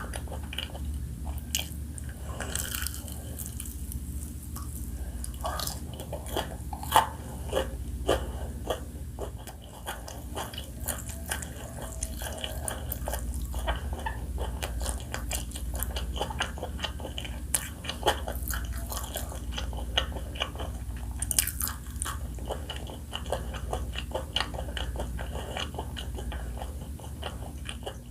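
Close-miked eating of spicy fried chicken: crisp batter crunching under bites, with wet chewing, in a dense run of irregular crackles. A steady low hum lies underneath.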